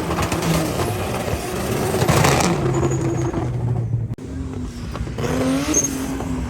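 Drift cars' engines revving hard and changing pitch as they slide around the track, with a rapid crackle of exhaust pops in the first second. About four seconds in the sound cuts abruptly to another engine that revs up.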